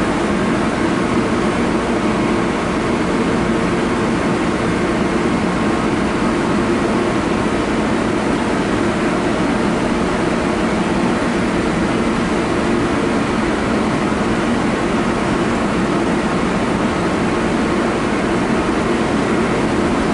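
Steady drone of a diesel MARC commuter train standing at a station platform, its engine and the cars' ventilation running without a break.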